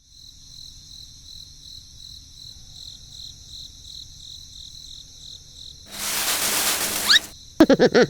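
Crickets chirping steadily. About six seconds in comes a loud noisy whoosh with a rising whistle, and near the end a quick run of sharp pops.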